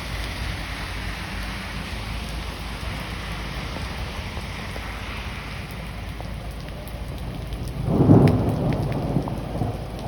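Heavy rain pouring steadily during a thunderstorm, with a loud thunder clap about eight seconds in that rumbles and fades.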